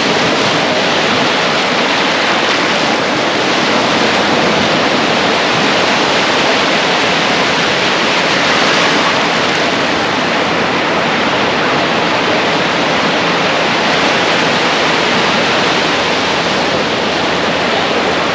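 Ocean surf rushing steadily, a loud even wash of breaking waves with no let-up.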